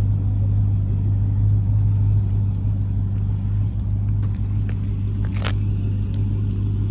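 Car engine idling steadily with an even low hum. A brief sharp noise cuts in about five seconds in.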